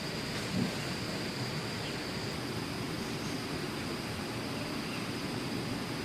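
Steady, even hiss of outdoor noise with a faint steady high tone above it, and one brief soft thump about half a second in.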